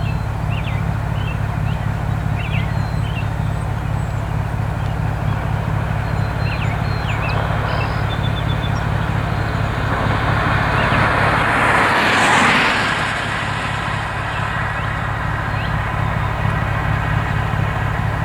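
A vehicle engine idling with a steady low rumble, with small birds chirping now and then. About ten seconds in, another vehicle passes by, its noise swelling and then fading.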